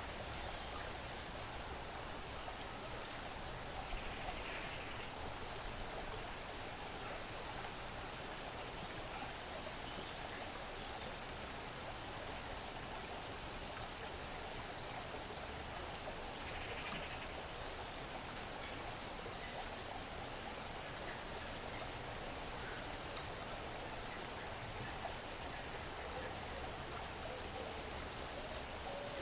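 Steady woodland ambience: an even hiss like distant running water, with a few faint ticks. Two brief soft sounds come about four and seventeen seconds in.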